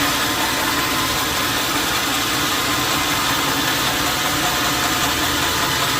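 Sawmill machinery running steadily, an even engine-like hum with no change in speed.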